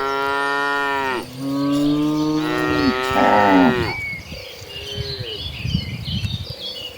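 Cattle mooing: two long, low calls, one ending about a second in and the next lasting until about four seconds in. After that it is quieter, with faint high chirps.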